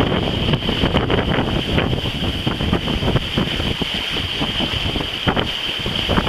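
Wind buffeting the microphone aboard a sailing yacht under way, a dense gusting rumble with a steady high hiss above it.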